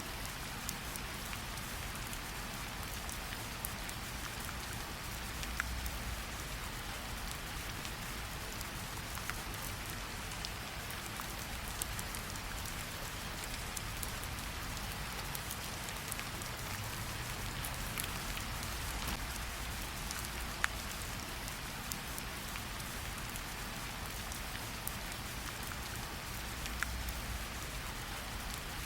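Steady rainfall, with scattered single drops landing sharply now and then over the even hiss.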